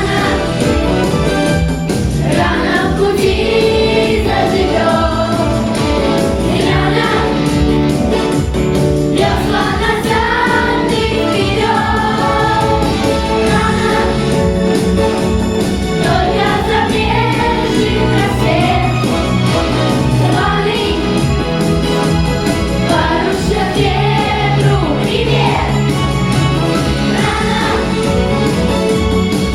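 Song with choral singing over instrumental accompaniment, loud and continuous.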